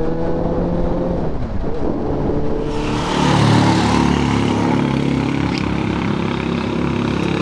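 Suzuki GSR 600's inline-four engine with its Akrapovic exhaust, running under way and rising slowly in pitch as the bike gains speed. About three seconds in, a loud rush of noise joins the engine and continues.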